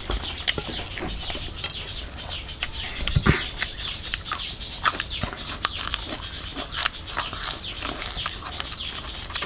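Close-up chewing of food, with irregular crunches and wet mouth clicks, over a steady high hiss.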